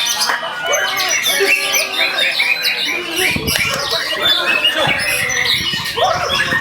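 Many caged songbirds singing at once in a dense, overlapping chorus of rapid chirps and whistles, the white-rumped shama's varied song among them. Low rumbling joins in from about halfway.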